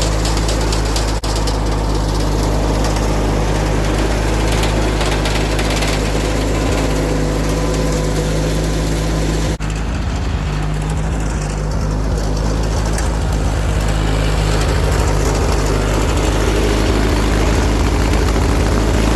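John Deere 317 garden tractor's Kohler twin-cylinder engine running steadily at working speed.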